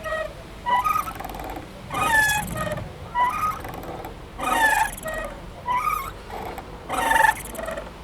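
Playground swing squeaking rhythmically as it swings back and forth, a short squeal about every second and a quarter.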